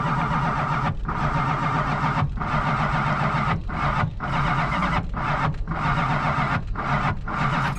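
Starter motor cranking a classic car's carbureted engine over and over without it catching. The engine died moments before, on what the owner takes for bad gasoline.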